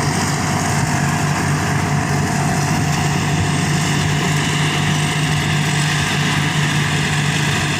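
Combine harvester's engine and machinery running steadily at an even speed, a constant low hum under a dense mechanical whir.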